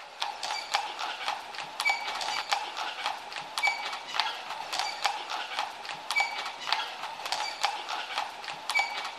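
Horse's hooves striking in a steady cantering rhythm, a long run of sharp hoofbeats.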